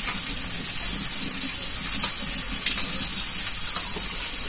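Sauce-coated soybeans sizzling steadily in a wok over the fire, with a few faint clinks of a spoon stirring cornflour into water in a small bowl.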